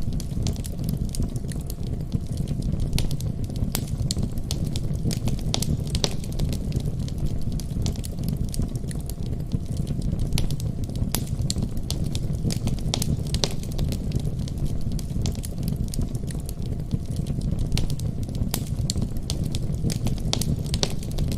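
Fire burning in a fireplace, crackling steadily: many sharp pops and snaps, several a second, over a continuous low rumble.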